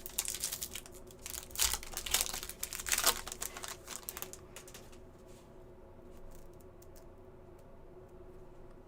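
Trading card pack wrapper crinkling and cards clicking as they are handled: a rapid run of crackles and clicks for about the first four and a half seconds, then only a faint steady hum with a few light ticks.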